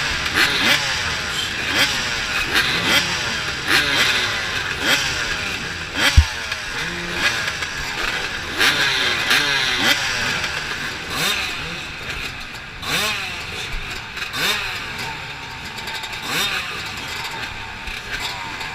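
Several off-road dirt bikes racing past, engines repeatedly revving up and dropping as they shift gears, with many rising pitch sweeps overlapping. One sharp thump about six seconds in.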